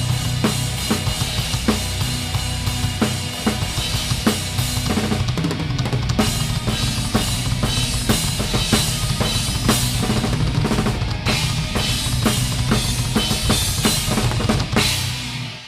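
Live band playing, heard from a camera at the drum kit, so the Pearl Masters kit's fast kick and snare strokes are loudest over a steady low bass line. The music stops suddenly near the end and dies away.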